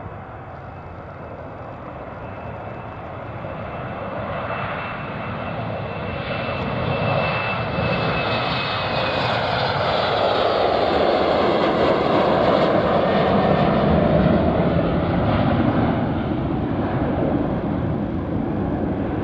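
Airliner passing close by: its engine noise swells steadily for about twelve seconds, peaks, then begins to fade, with a faint high whine sliding slightly down in pitch as it approaches.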